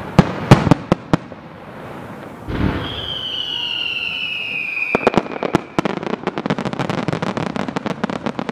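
Fireworks: several sharp bangs in the first second, then a whistle falling slowly in pitch for about three seconds, then a dense, rapid crackling from about five seconds in.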